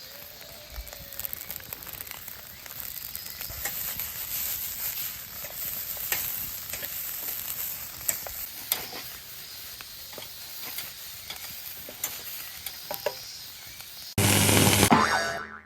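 Fried rice sizzling in a pan over a campfire, a steady hiss with scattered clicks. Near the end a louder burst of about a second cuts in, then the sound stops abruptly.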